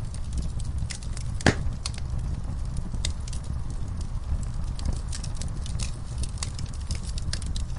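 Wood fire burning in a fireplace: a steady low rumble of flames with irregular sharp crackles and pops, one louder pop about one and a half seconds in.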